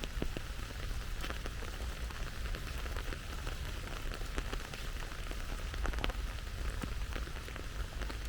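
Steady rain falling, with many individual drops landing as irregular sharp ticks over a continuous hiss.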